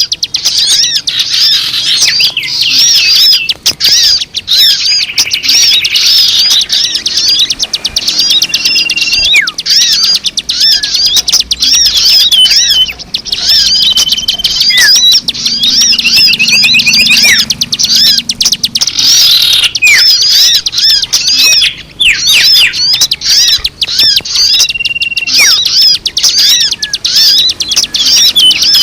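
Loud, dense chirping and twittering of many small birds: rapid high calls overlapping without pause, with a few short held whistles among them. It is a recording used to lure birds.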